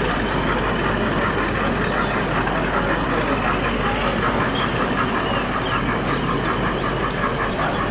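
Crowd chatter in a busy exhibition hall, with a model train running on a layout and a fast, even rhythm throughout.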